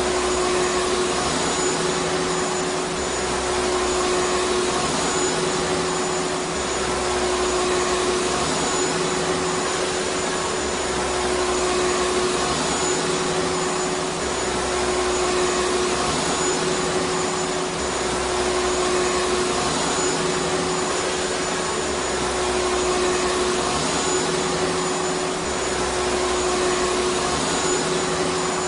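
Vacuum cleaner motor running steadily: a continuous rush of air with a constant hum at one pitch. A faint low rumble swells and fades about every two seconds.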